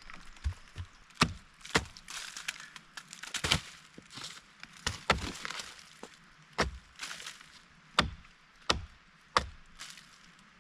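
Wood being chopped: about eight sharp strokes at uneven intervals, with rustling between.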